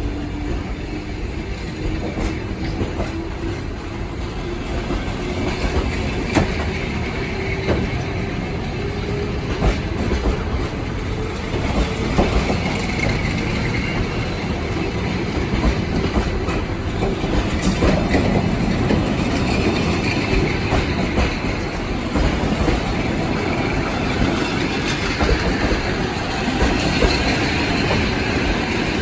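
Trans-Siberian Railway train pulling away, its wheels clicking over rail joints amid a steady rumble. A single tone rises slowly in pitch over the first ten seconds or so as the train gathers speed.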